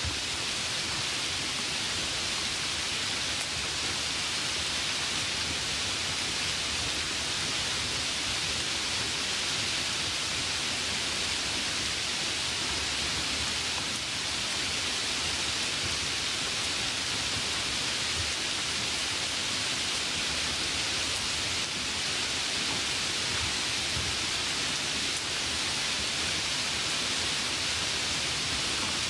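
A steady hiss of noise, even throughout and brightest in the high range, with no clicks or other sounds standing out from it.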